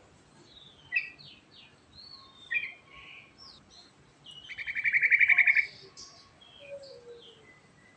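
Yellow-vented bulbul (trucukan) singing: a few short, sharp chirps, then about a second of loud, fast rolling trill a little before the middle, then softer scattered chirps.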